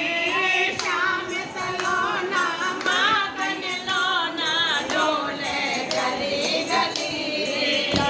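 Several voices singing a devotional song together, the melody wavering and ornamented.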